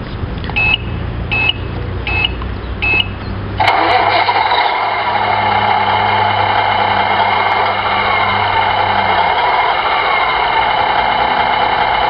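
Four short electronic beeps, then an RC model truck's sound module starting up a simulated Scania truck engine through a small speaker, which cuts in suddenly and settles into a steady idle. A low hum underneath drops away about nine seconds in.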